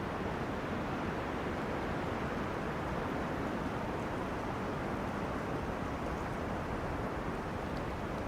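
Wind rushing through tree crowns, a steady dense rustle without breaks.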